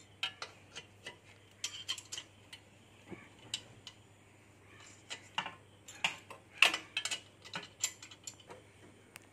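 Irregular sharp metallic clicks and clinks of hand tools working on metal parts while a motorcycle silencer is fitted.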